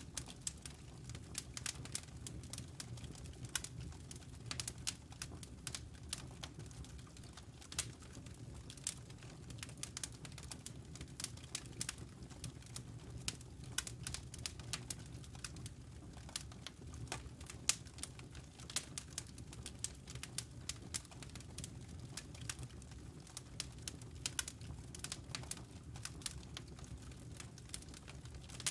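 Wood campfire crackling as it burns down to hot embers: a steady stream of sharp, irregular pops and snaps over a low rumble.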